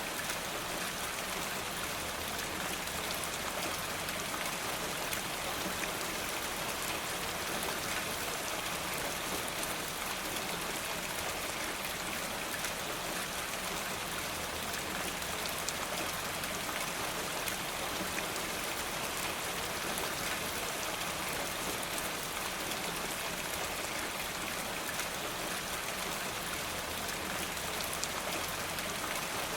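Steady rain falling, an even hiss without let-up, with scattered faint sharp ticks.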